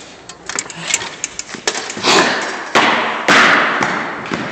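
A phone held in the hand, clicking and knocking as it is handled, then three loud rushes of air on the microphone, each starting suddenly and fading over about a second.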